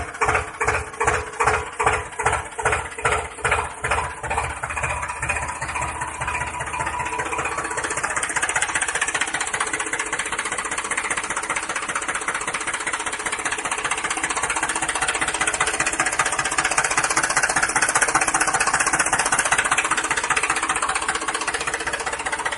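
An engine chugging at about three beats a second, quickening over the first few seconds into a steady, fast run.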